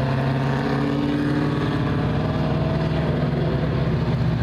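Race car engine running steadily on the speedway, a low continuous note with a slight rise in pitch partway through.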